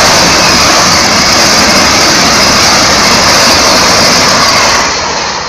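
Train 18 (Vande Bharat Express) electric multiple unit passing at high speed close by: a loud, steady rush of wheels on rails and air, dropping off about five seconds in.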